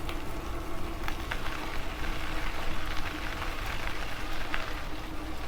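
Riding noise from an e-bike rolling along a trail: a steady rumble of wind on the microphone under a crackling hiss of tyres over grit, with a few light ticks and clicks.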